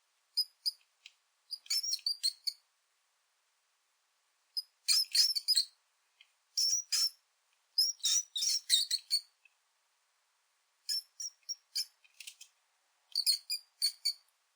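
Mouse squeak sound effect: clusters of short, high-pitched squeaks, about seven groups of rapid chirps with silence between them.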